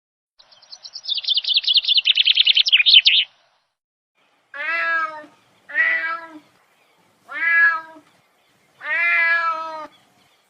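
A rapid, high-pitched chittering trill for about three seconds, then a domestic cat meowing four times.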